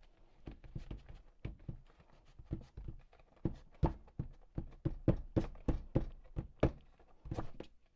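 Irregular knocks, taps and thunks of a large packaged craft set being handled and moved aside.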